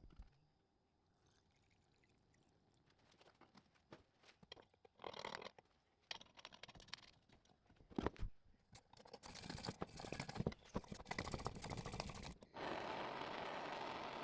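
Handling clicks and scrapes with short bursts of noise, then, about 12.5 seconds in, a steady hiss that starts suddenly: a restored 1949 Coleman 242C pressure lantern lit and burning.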